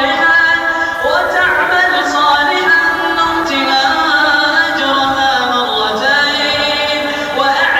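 A reciter chanting the Quran in a melodic style, drawing out long held notes that bend in pitch. A new phrase rises in about a second in, and another near the end.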